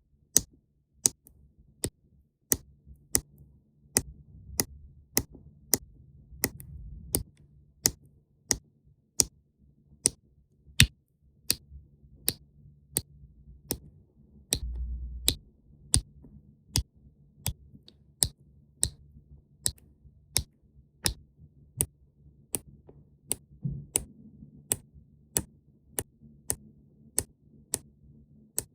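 Sharp, very evenly spaced clicks, about three every two seconds, over a faint low hum.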